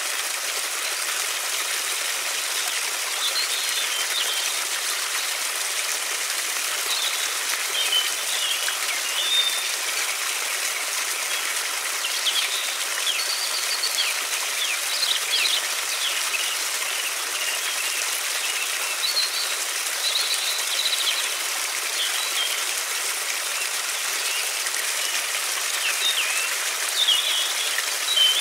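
A river running with a steady rush of water, with small birds singing short chirps and warbles over it at intervals.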